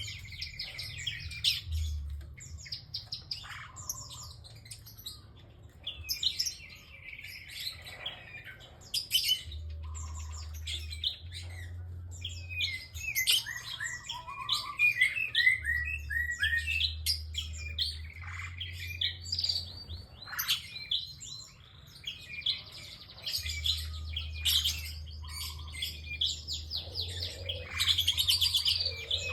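Prinia (prenjak) singing without pause: rapid strings of sharp chirps and trills, one call after another.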